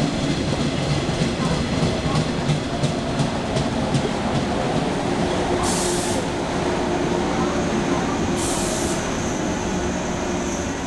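JR West 113 series electric train rolling along a station platform, its wheels clicking over rail joints, then two short bursts of air hiss in the second half.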